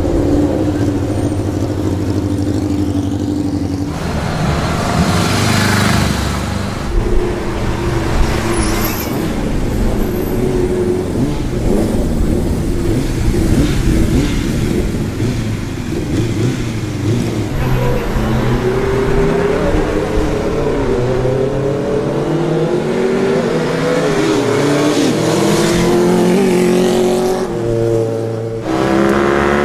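Vehicle engines running and being revved, with the pitch sweeping up again and again in the second half.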